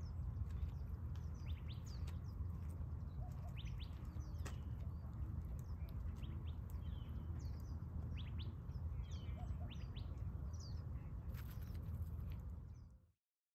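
Many small birds chirping in short, quick calls, over a steady low rumble; it all fades out near the end.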